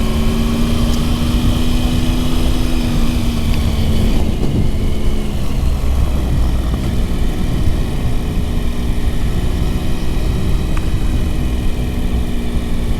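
Motorcycle engine running steadily under way, heard with a heavy low rumble of wind and road noise on the rider's microphone. About four to five seconds in the engine note breaks off and comes back at a slightly different pitch, then holds steady again.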